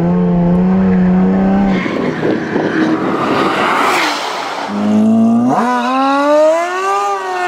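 Corvette Z06 V8 engines revving hard under acceleration on a wet road. About two seconds in, the steady engine note gives way to a noisy rush. Near the end an engine's pitch climbs sharply and holds high, wavering.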